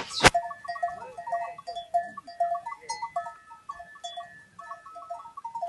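A herd of livestock, with many short overlapping calls or notes at a few repeated pitches throughout. One sharp knock stands out just after the start.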